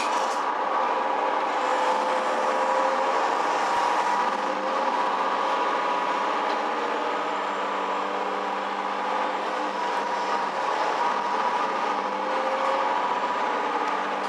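Suigun Line KiHa E130 diesel railcar running along the line, heard from inside the carriage: a steady engine drone with several held tones over the even running noise of the wheels and rails.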